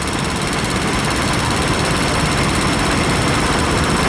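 Vintage tractor engines running steadily.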